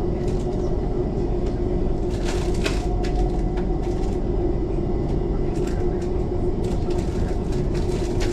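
Electric passenger train running, heard from inside the carriage: a steady rumble with a constant hum, and scattered clicks and rattles about two seconds in and again near the end.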